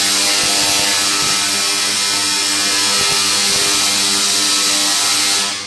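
Tesla coil discharging sparks into the air from the two points of a spinning pinwheel: a loud, steady electric buzzing crackle with an even hum running through it. It cuts off sharply near the end.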